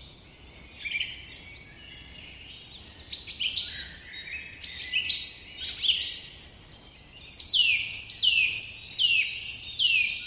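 Birds calling with varied high chirps, then a run of sharp falling calls repeated about twice a second.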